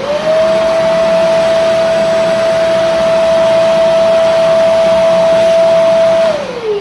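MAG 3-in-1 wet and dry vacuum cleaner switched on and run at full power: a loud, quite noisy motor whine that rises quickly to a steady pitch, then falls away as it is switched off and spins down near the end.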